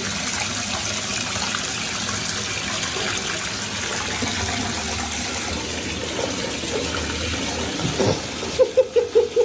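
Steady rushing of running water, like a tap or tub filling. Near the end, a quick run of short, repeated pitched sounds, about five a second.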